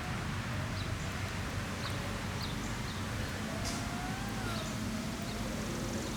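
Outdoor ambience at a ball field: a steady low background rumble with faint short high chirps every second or so, and a faint wavering tone in the middle.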